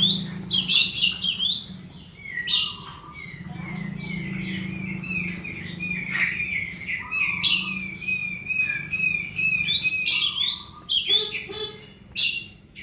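Cinereous tit (glatik batu) calling. Clusters of sharp, high chirps open the passage and return about ten seconds in, and between them runs a long string of rapid, chattering notes.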